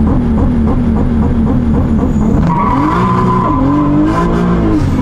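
Single-turbo 2JZ-GTE straight-six of a MkIV Toyota Supra heard from inside the cabin, pulling under acceleration. The engine note wavers quickly at first; from about halfway the revs climb and drop a few times, a steady high tone joins, and a faint high whistle climbs throughout.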